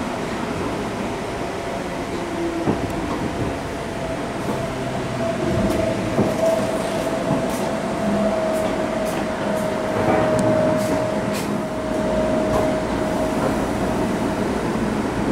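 Seibu New 101 series resistance-control electric train running slowly, heard inside the passenger car: a steady rumble with a steady whine that stops near the end, and light scattered clicks.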